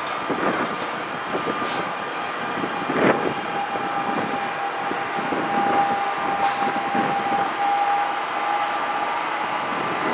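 NJ Transit Arrow III electric multiple-unit cars rolling past as the train arrives, with a steady high-pitched whine for several seconds in the middle and a few sharp knocks from the wheels.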